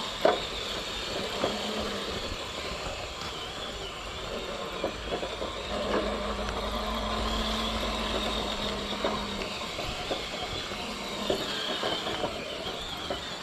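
6x6 RC crawler trucks crawling along, their electric motors and geared drivetrains whining and rising and falling in pitch with the throttle, with scattered small clicks and knocks.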